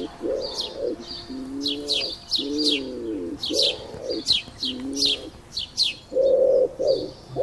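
Pigeons cooing in repeated low, arched calls about once a second, growing louder and harsher near the end, with small birds chirping in quick, high falling notes over them.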